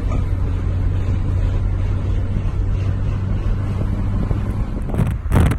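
Car running with a steady low drone of engine and road noise. About five seconds in, loud gusts of wind buffet the microphone.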